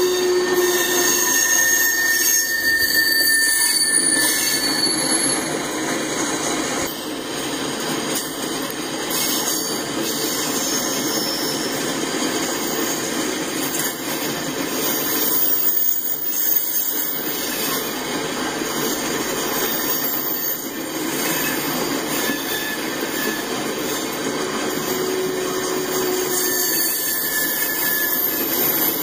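Tank cars of a freight train rolling steadily past, wheels running on the rail in a continuous rumble, with faint thin wheel squeals now and then.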